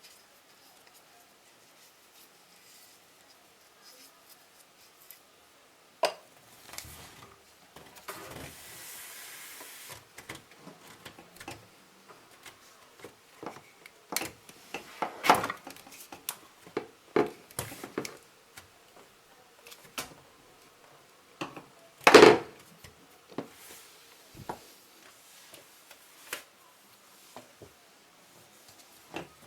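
Hard objects being handled and set down: scattered knocks, clicks and rubbing, with a short steady hiss about eight seconds in and one loud knock a little past twenty seconds.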